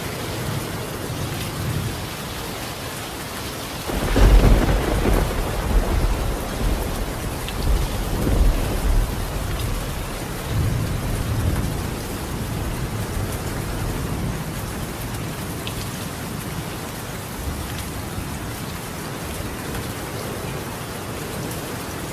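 Steady rain falling on a tiled roof, with a roll of thunder that breaks suddenly about four seconds in and rumbles on in several swells for some eight seconds before fading back into the rain.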